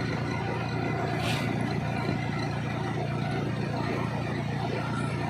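Steady low engine drone under a noisy haze, with a brief hiss about a second in.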